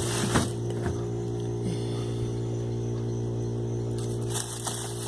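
Old refrigerator humming steadily, its compressor running with a low, even drone. A few short clicks and rustles, from items being handled, come about half a second and a second in and again near the end.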